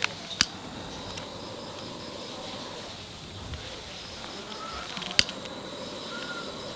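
A few sharp clicks and knocks from handling a small wood-burning camp stove and its fire starter as the fire is being lit: two near the start and one louder about five seconds in. Beneath them is a steady outdoor background with faint high chirping.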